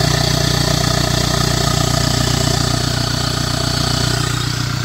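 Toyota Innova Reborn turbodiesel idling with the air-filter box opened, the turbo drawing in a large amount of air through the exposed filter. It is a steady engine hum under a rushing intake suck, a sign of a clean, free-flowing intake path.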